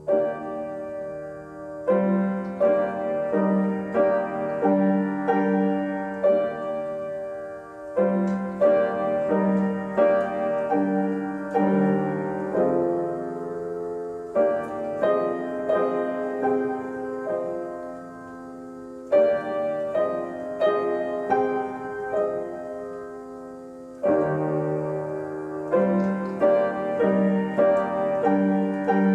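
Solo piano music playing a slow melody over chords, in phrases of a few seconds each.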